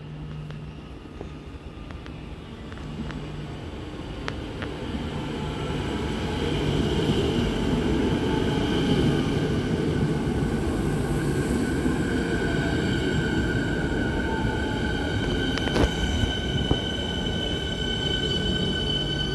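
Siemens Nexas electric suburban train pulling into the platform and slowing to a stop, its running noise growing louder over the first several seconds. In the second half a steady high-pitched squeal builds as it brakes, with two sharp clicks near the end.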